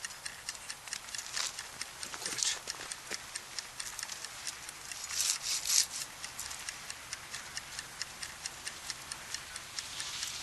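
Wood campfire crackling: a steady run of small sharp pops, several a second, with a few louder flurries of crackle about two and a half and five to six seconds in.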